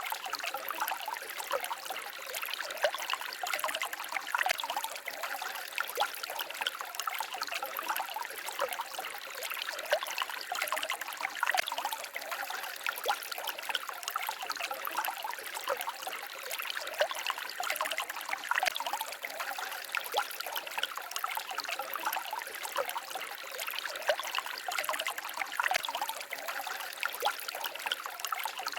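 Small forest stream babbling and trickling over stones: a steady light splashing with many quick little spatters, without any deep rumble.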